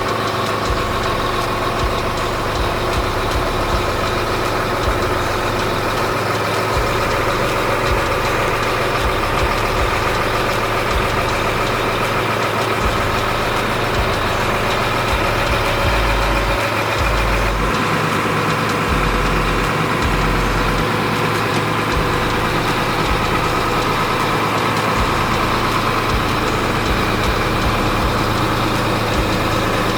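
Sinotruk HOWO heavy truck's diesel engine idling steadily, its tone shifting slightly about halfway through.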